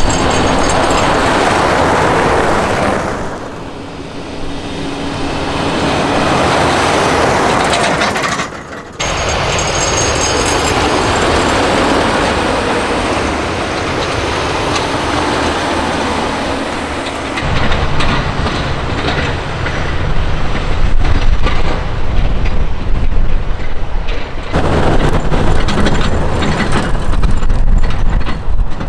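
Heavy military trucks driving by, with engine rumble and tyre noise, in several short takes that change abruptly.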